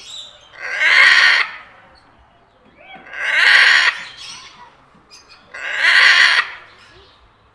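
Parrot squawking: three loud, harsh calls of under a second each, about two and a half seconds apart.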